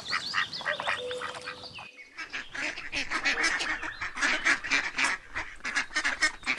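Ducks quacking. After a brief break about two seconds in, the quacks come fast and overlapping.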